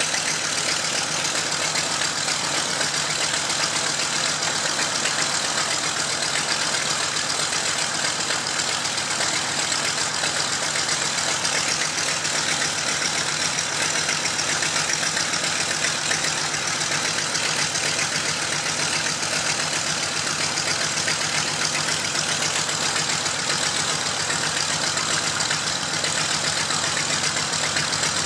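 A Mitsubishi A6M Zero fighter's Nakajima Sakae fourteen-cylinder radial engine runs steadily at a low, even speed.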